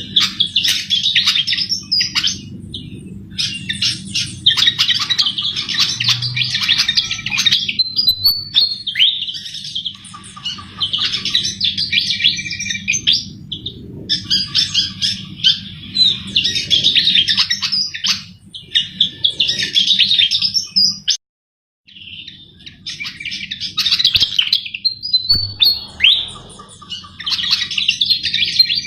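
Sikatan jawa flycatcher singing vigorously in rapid, chattering, high-pitched phrases of one to two seconds each, repeated with short pauses between them. A steady low hum runs underneath and cuts out for a moment about two-thirds of the way through.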